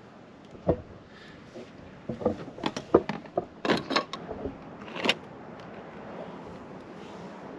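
A run of separate sharp knocks and clacks over the first five seconds, from things being handled during roof repair work, then only a faint steady background.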